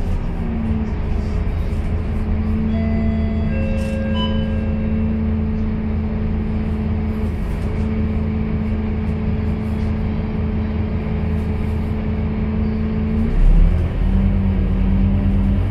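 Scania K230UB city bus engine running steadily under way, heard from inside the bus. Near the end the engine note breaks with a brief loud thump and settles at a different pitch. A few short high beeping tones sound early on.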